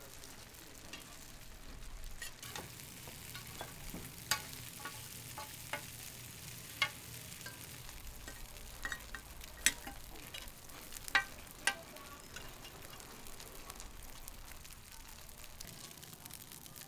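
Food frying with a steady sizzle, broken by a dozen or so sharp clicks and taps through the middle.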